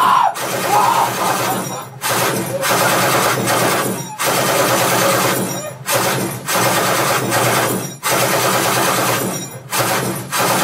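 Machine-gun fire sound effect played loud through speakers and a subwoofer, coming in bursts about two seconds long with short breaks between them.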